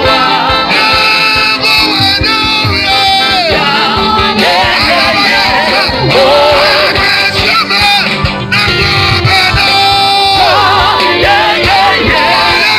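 Live gospel worship music: a lead voice sings with sliding, drawn-out notes over a full band accompaniment.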